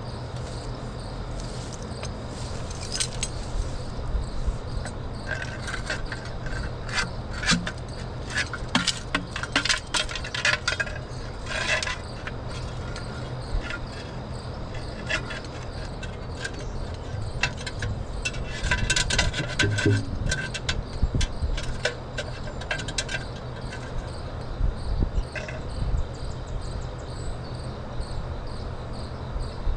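An engine running steadily with a low hum, under irregular metallic clinks and rattles, with insects chirping faintly.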